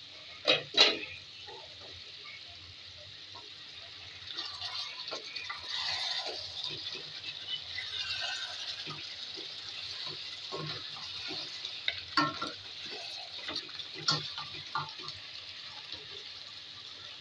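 Beef sizzling in a pot while a wooden spatula stirs it, with a steady hiss of frying and sharp knocks of the spatula against the pot, the loudest about half a second in and again around the twelve- and fourteen-second marks.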